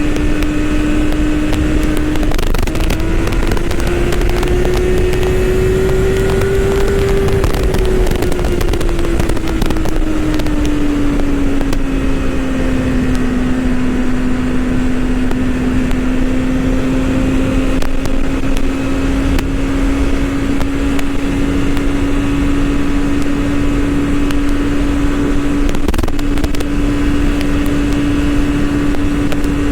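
BMW S1000RR's inline-four engine running at a steady cruise under wind rush. About two seconds in the engine note climbs for a few seconds, then drops back lower and holds steady.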